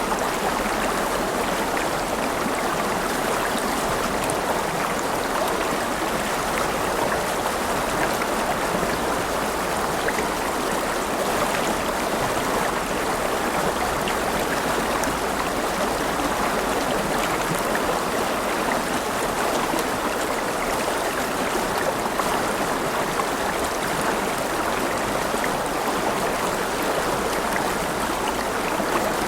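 River water running over rocks: a steady rushing and babbling, with fine splashes and trickles throughout.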